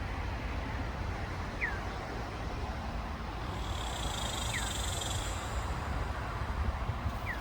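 Northern cardinal giving three short, downslurred whistled notes, spaced about three seconds apart, over a steady low rumble.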